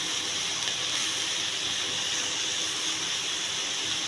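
Steady sizzling hiss of shredded cabbage and pointed gourd frying in a hot pan.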